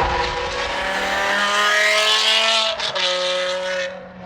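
Straight-piped BMW M6's twin-turbo V8 pulling under acceleration, its pitch climbing, then a brief break for a gear change a little under three seconds in, after which it runs on at a lower, steadier pitch.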